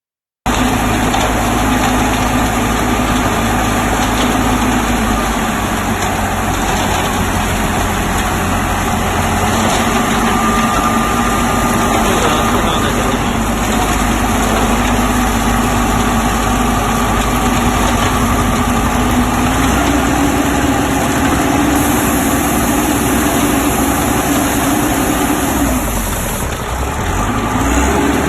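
Engine of a self-loading concrete mixer truck running steadily, with dense mechanical noise. Its note shifts slightly higher about twenty seconds in, and the sound dips briefly near the end.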